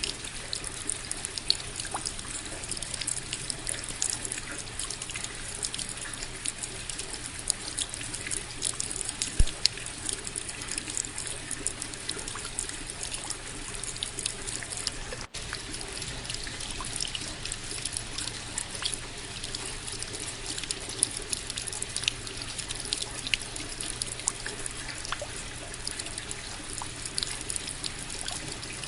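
Steady rain, with many close drops ticking over a constant wash of falling water; a split-second break about halfway through.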